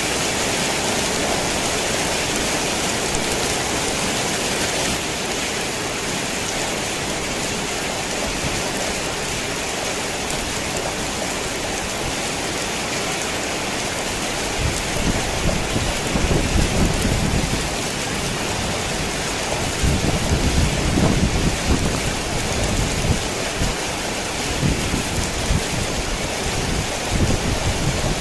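Torrential rain pouring steadily onto a tin roof, with thunder rumbling in from about halfway through and swelling twice.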